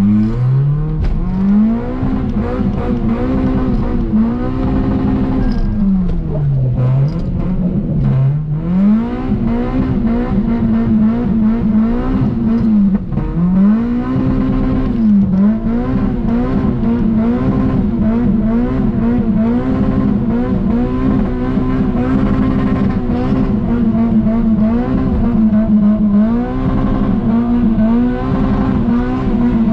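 Toyota Altezza's 3S-GE four-cylinder engine revving hard while drifting. The pitch keeps climbing to the same ceiling and bouncing off the rev limiter, with two deeper drops in revs at about seven and eight seconds in.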